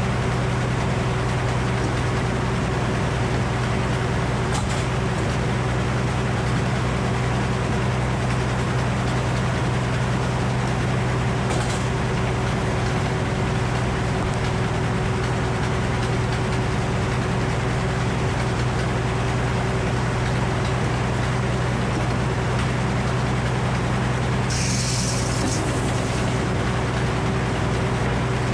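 Frick circular sawmill running steadily, its power unit and spinning saw blade giving an even, unchanging hum. There is a short hiss near the end.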